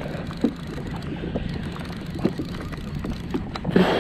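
Water lapping against a kayak hull, with small knocks from the boat and gear, and a short louder rush of water or wind noise near the end.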